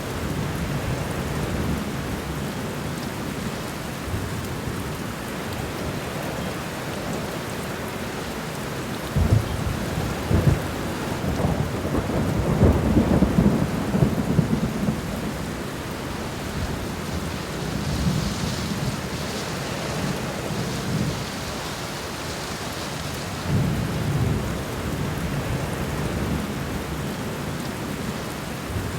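Steady rain falling on the ground and plants, an even hiss with low rumbling swells, strongest from about a third of the way in to the middle.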